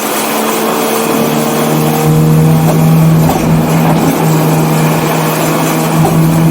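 1984 BMW 318i's four-cylinder engine running hard at a fairly steady pitch, getting louder about two seconds in.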